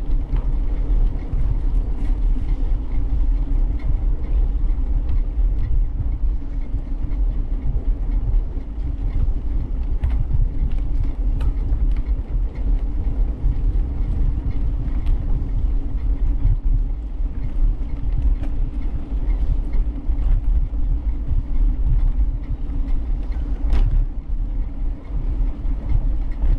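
Riding noise from a bicycle-mounted camera: a steady, fluttering low rumble of wind on the microphone and tyre noise on the path, with a few faint clicks.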